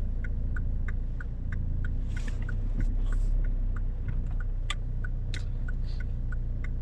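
A car's turn-signal indicator ticking evenly, about three ticks a second, over the low, steady rumble of an idling car engine.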